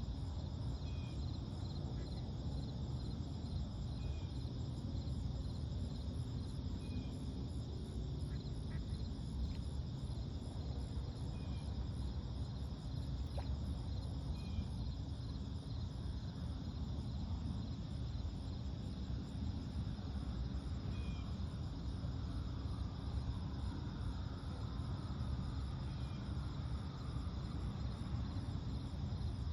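Lakeside dawn ambience: a steady low rumble under crickets chirping in an even rhythm, with short high bird calls every couple of seconds.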